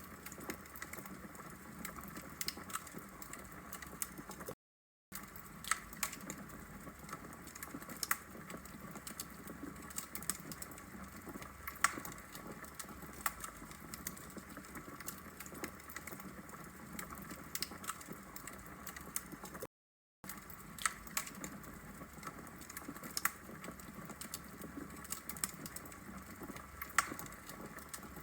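Wood fire burning in a fireplace: a steady low hiss with irregular sharp pops and crackles from the logs. The sound cuts out completely for about half a second twice, about five and twenty seconds in.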